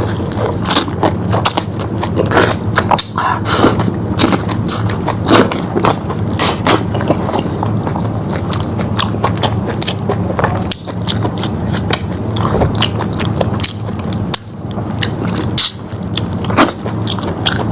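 Close-up sound of a person biting and chewing lamb meat, with many irregular wet clicks and smacks of the mouth.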